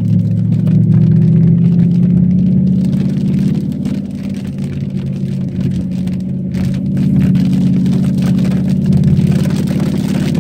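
Cadillac STS-V's supercharged V8 running under load at speed, easing off for a few seconds midway and then pulling harder again.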